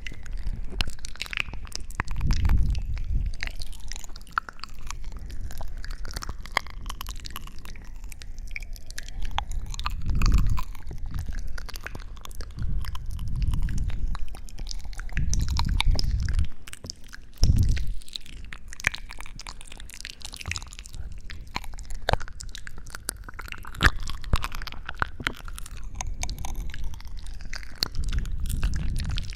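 Close-miked ASMR sounds: dense fine crackling and clicking, broken by several low, muffled rubbing thumps.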